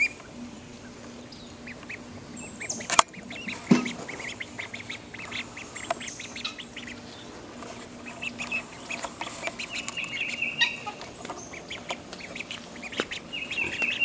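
Mallard and Pekin ducklings peeping rapidly and shrilly without pause, distressed crying after being put into water. Two sharp knocks come about three seconds in.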